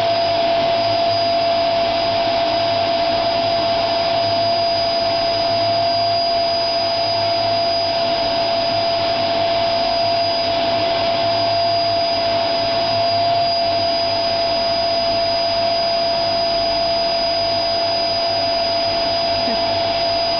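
Vacuum cleaner running steadily: an even rush of air with a constant whine of the motor.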